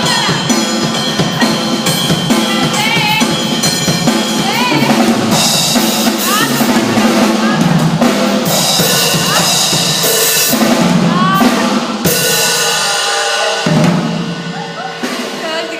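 A drum kit played with dense, steady hits on the drums and cymbals, getting quieter near the end.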